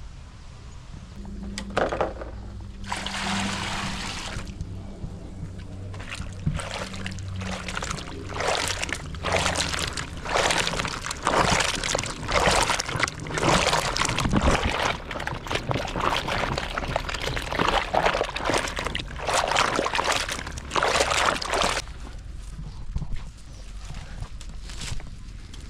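Water being poured and splashed in a series of irregular bursts, each a second or two long, stopping about 22 seconds in.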